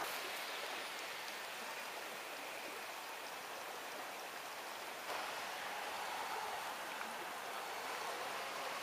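Rain pouring in a thunderstorm: a steady rushing hiss that gets a little louder about five seconds in.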